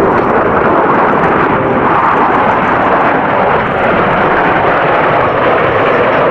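Military jet engine noise, loud and steady: a dense rushing sound with no distinct tones or separate bangs.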